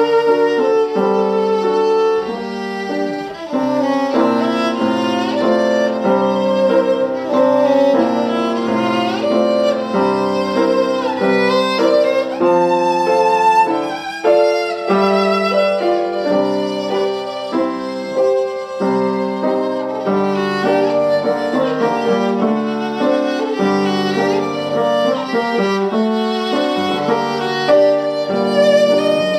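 Solo violin playing a classical melody, with vibrato on the held notes and a piano accompanying below.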